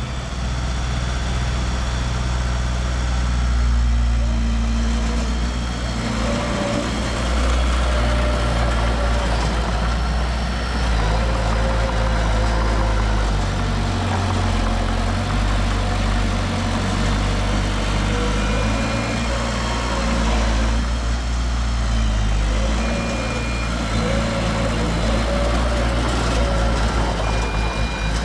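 Heavy diesel earthmoving machinery running steadily, its engine note shifting a little as it works, with a few short high tones in the second half.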